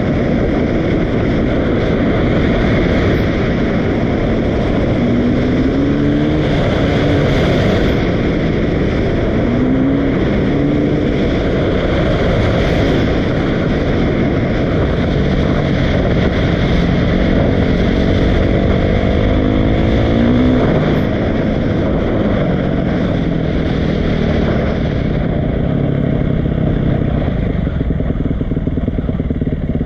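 Dirt bike engine running, its pitch rising as it revs up several times, under a loud, steady rush of noise.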